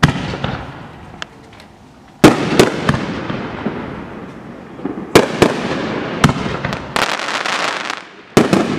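Mad Ox Double Barrel firework cake firing double-breaking aerial shells. A launch thump opens it. Sharp booms follow in pairs a fraction of a second apart as each shell breaks twice, and a dense fizzing crackle comes around seven seconds in.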